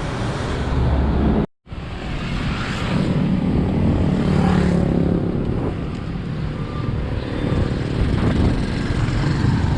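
Steady road and vehicle noise heard while cycling along a road, heaviest in the low end, with a brief cut to silence about one and a half seconds in.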